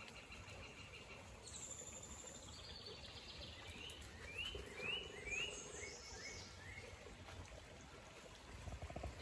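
Birds singing in woodland: a run of short, rising, high chirps in the middle, with a few higher notes before them, over faint steady low background noise.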